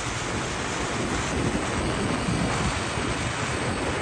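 Steady wind rush and road noise on the microphone while riding a motorbike.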